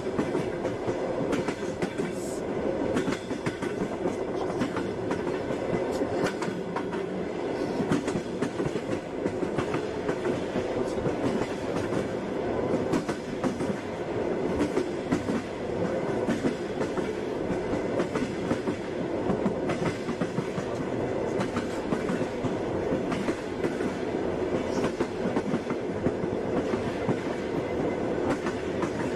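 Passenger train running along the track, a steady rumble with the clatter of its wheels.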